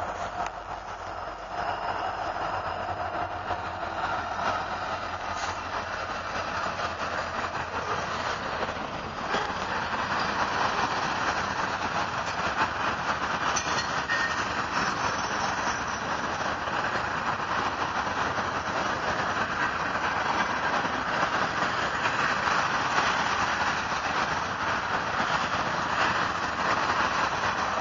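Norfolk Southern freight train passing: a diesel locomotive and a string of covered steel-coil cars rolling on the rails. It is a steady rumble that grows louder over the first ten seconds or so and then holds.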